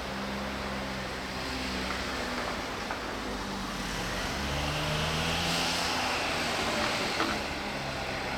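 Shinano Railway 115 series electric train running past: a steady low motor hum whose pitch rises about halfway through, with wheel-on-rail hiss that swells toward the end and a couple of faint clicks near the end.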